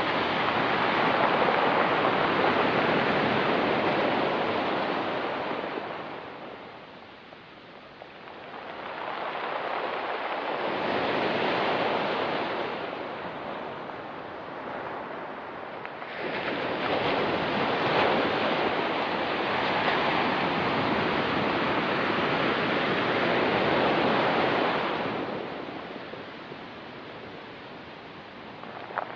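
Ocean surf washing up a rocky, pebbly beach in slow surges: three waves rise and fall, the last the longest, and a fourth is just starting at the end.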